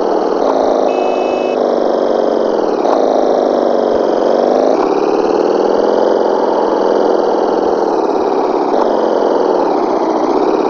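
Motorcycle engine running under way, its pitch dropping and climbing again several times as the throttle and gears change.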